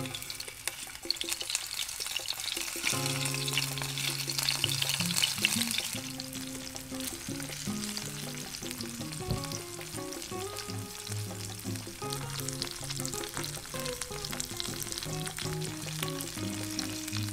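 Cornstarch-coated octopus pieces sizzling and crackling as they pan-fry in a little oil, loudest in the first six seconds or so and softer after. Background music with steady notes plays over it from about three seconds in.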